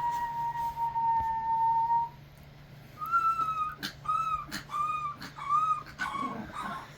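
A man whistles one long, steady note that sinks slightly and stops about two seconds in. After a short pause, dogs answer with a run of short, rising-and-falling howls, turning ragged near the end.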